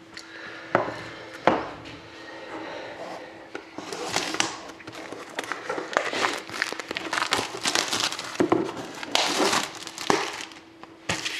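Plastic wrapping crinkling and tearing as a sealed trading card box is unwrapped and opened by hand, with a few sharp clicks early on and dense crinkling through the rest.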